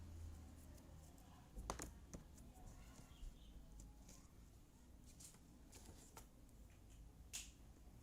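Faint scattered clicks and taps, about five over several seconds, of jigsaw puzzle pieces being handled and pressed into place on a table.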